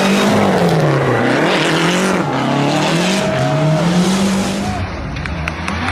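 Rally car engine at high revs, its pitch climbing and dropping again and again through quick gear changes and lifts, over a loud rush of tyre and road noise. Near the end it cuts abruptly to a quieter, duller car sound.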